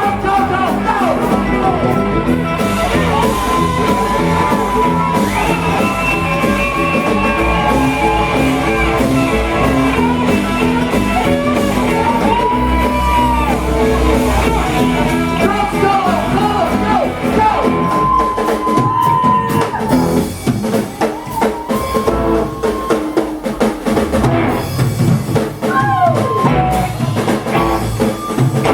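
Live rock and roll band playing an instrumental break: a lead electric guitar playing bent notes over drums and bass, steady and loud throughout.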